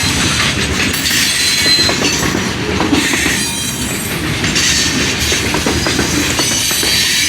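Train cars rolling past close by, steel wheels clacking over the rail joints with a faint squeal from the wheels.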